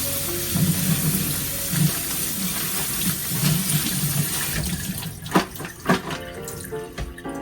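Kitchen tap running into a sink, the water splashing, with two sharp knocks a little past the middle. The flow thins away near the end.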